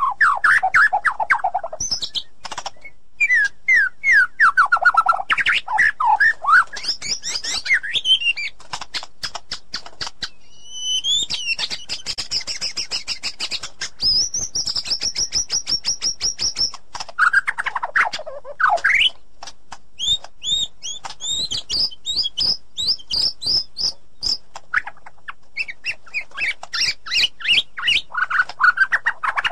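White-rumped shama singing a loud, varied song of whistled phrases: falling glides, rapid clicking and ticking notes, and a long steady high whistle in the middle.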